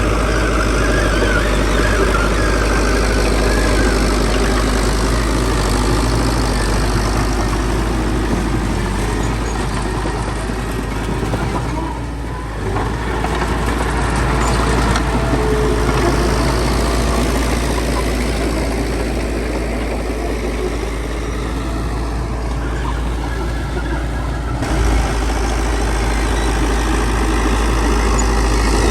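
Heavy diesel engines of earth-moving machinery running steadily, a continuous low drone with a brief drop in level about twelve seconds in.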